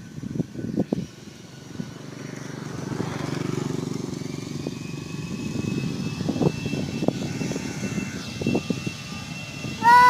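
Airliner jet engines running: a steady low rumble that swells about two seconds in, with a faint high whine joining about halfway.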